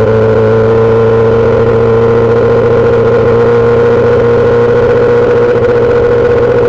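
2008 Yamaha R6's 600 cc inline-four running through a full SC-Project aftermarket exhaust, held at a steady engine speed, its pitch easing slightly at the start and then holding almost level.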